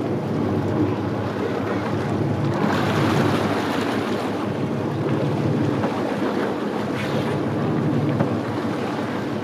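Motorboat engine running at a steady pitch, with wind on the microphone and water noise. The wind swells about three seconds in.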